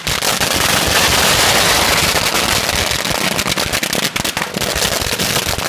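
A string of firecrackers going off, the bangs merging into a dense continuous crackle, then thinning into separate rapid pops over the last couple of seconds.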